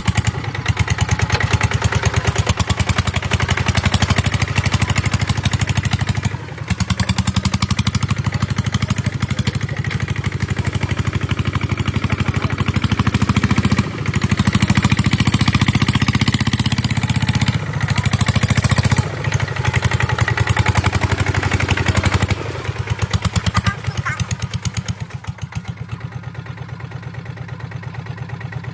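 Kubota ZT 150 single-cylinder diesel engine running under load while ploughing a rice field, with a rapid, even chugging. The loudness dips briefly a few times, and the engine runs quieter near the end.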